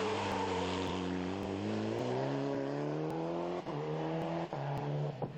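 Rally car engine accelerating hard, its pitch climbing steadily, then two brief cuts about three and a half and four and a half seconds in, as at gear changes.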